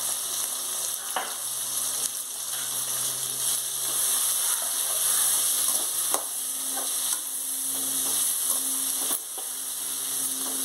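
Brinjal pieces frying in oil in an aluminium kadai: a steady sizzle. A perforated metal ladle stirs them, scraping and clicking against the pan several times.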